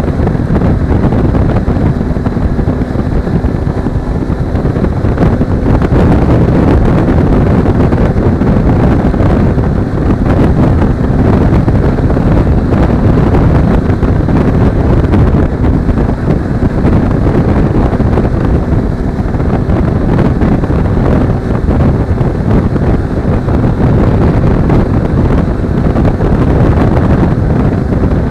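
Loud, steady wind rushing over an action camera's microphone on a moving Suzuki V-Strom 250 motorcycle, with the bike's parallel-twin engine running at a steady cruise beneath it.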